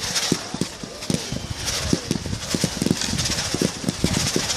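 Fireworks going off in a rapid, irregular barrage: many bangs and pops a second over a continuous crackle.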